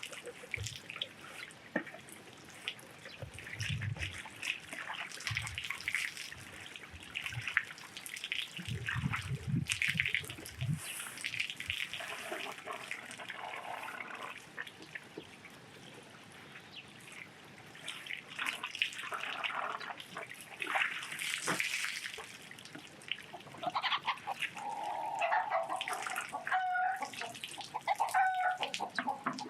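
Water splashing and trickling with scattered small knocks, and a few low thumps early on. In the last few seconds a hen clucks repeatedly.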